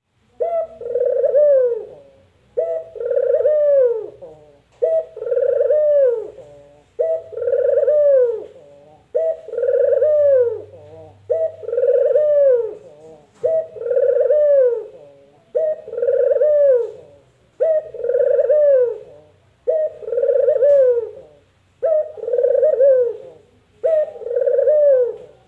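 Domestic ringneck dove (burung puter) cooing its two-part "mpuk-jeruu" call, a short note followed by a longer rolling coo that falls away at the end. The call repeats evenly about every two seconds, twelve times.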